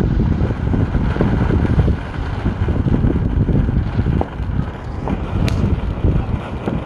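A ground fountain firework spraying and hissing steadily, heavily buffeted by wind on the microphone, with a sharp pop about five and a half seconds in.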